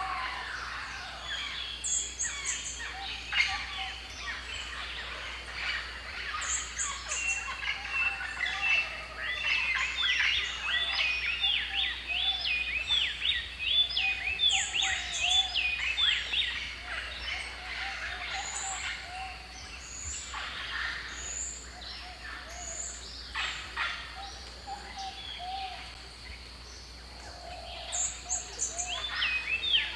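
Several birds calling and chirping together, with short high repeated notes, and busiest near the middle.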